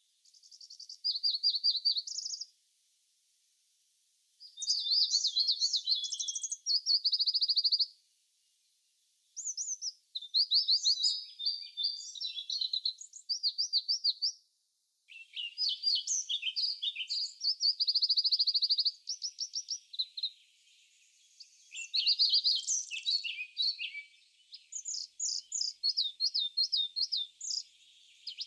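Songbirds singing in repeated phrases of a few seconds, high chirps ending in quick trills, with short pauses between phrases.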